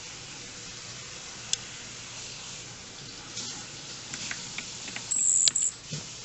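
Baby robin giving short, very high, thin begging peeps about five seconds in, over a steady hiss with a few small clicks.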